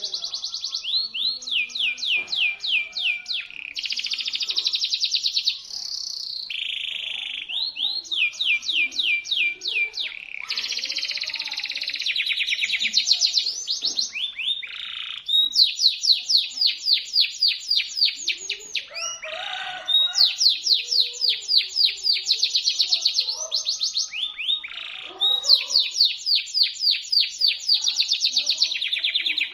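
Domestic canary singing a loud, shrill, sharp song: phrase after phrase of rapid trills, each a run of evenly repeated notes at several per second, with only brief breaks between phrases.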